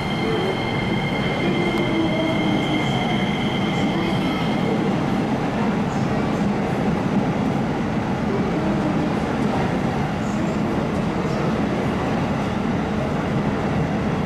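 Electric commuter train passing slowly through a station, close by: a steady rumble of wheels and running gear. A steady high whine sits over it for the first five seconds or so.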